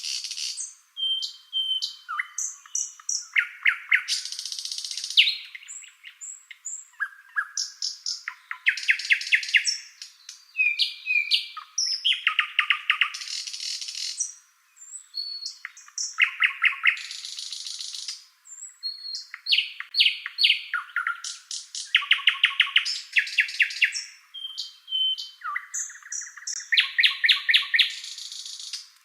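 Songbirds singing: rapid trills of quick repeated notes, short whistled notes and buzzy phrases, repeated over and over with short pauses between.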